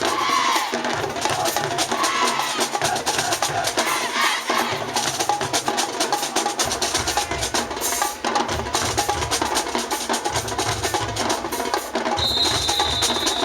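High school marching band drumline playing a fast cadence of crisp snare strokes, with bass drums joining in heavily about halfway through. A steady high tone sounds near the end.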